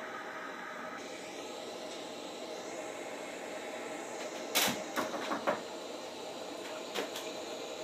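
A steady background hum, broken by a quick cluster of sharp clicks and knocks about four and a half seconds in and a single click near the end.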